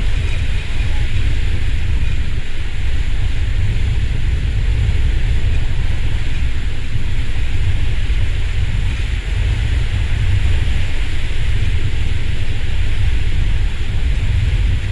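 Strong wind buffeting the microphone: a steady, heavy low rumble with a hiss over it.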